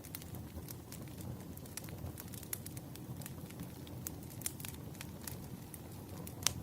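Wood fire crackling: irregular sharp pops and snaps over a steady low rumble, with one louder pop near the end.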